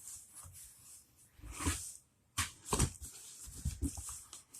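Faint, scattered rustling and light taps as a plush toy monkey and its box are handled.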